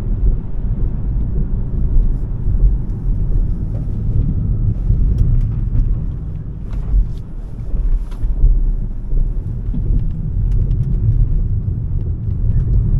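A Smart #3 electric car on the move: a steady low rumble of tyre and wind noise rising and falling in level, with scattered faint ticks. No motor sound stands out above the rumble.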